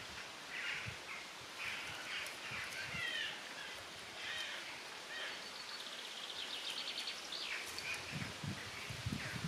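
Songbirds singing: a run of short chirping phrases and a fast trill about six seconds in. Low rustling comes in near the end.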